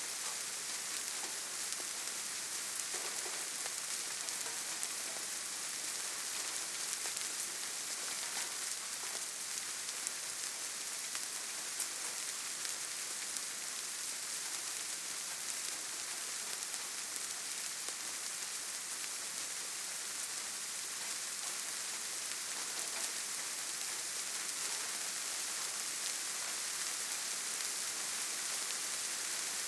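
Steady rainfall: an even, dense hiss of rain with scattered individual drops ticking through it.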